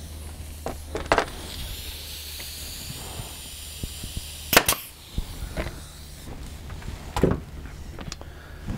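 Porter-Cable pneumatic nail gun firing 1¼-inch fasteners through the side of a wooden beehive frame. Three sharp shots a few seconds apart, the middle one the loudest, with a few lighter clicks between them, over a steady low hum.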